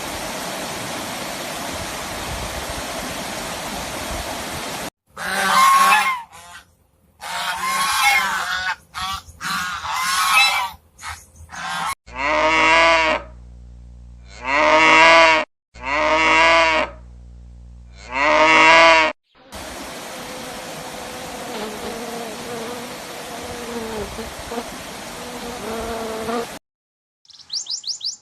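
Farm animals calling: a run of short honking calls, then four long, loud calls, one after another. Stretches of steady noise come before and after the calls.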